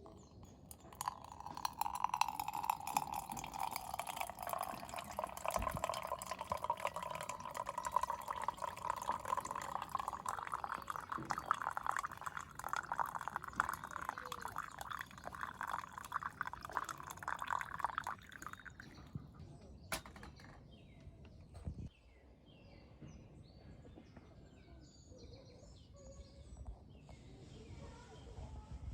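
Water poured in a steady stream into a vessel, its pitch rising as the vessel fills, stopping about 18 seconds in. A sharp click follows a couple of seconds later.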